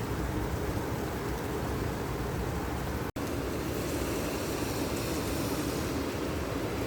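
Steady outdoor rain-and-wind noise, with a short break to silence about three seconds in.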